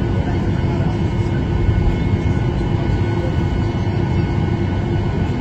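Steady cabin noise inside a jet airliner taxiing after landing: an even low rumble of the engines at idle and the air-conditioning, with a few faint steady tones.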